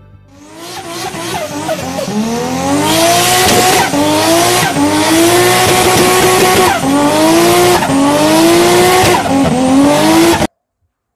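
Car engine accelerating hard up through the gears, its pitch climbing and dropping back at each of four upshifts. It cuts off suddenly near the end.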